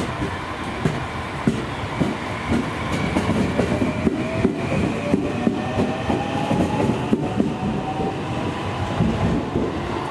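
Electric train pulling out. Its wheels clatter and knock over the rail joints, and a motor whine rises slowly in pitch as it gathers speed.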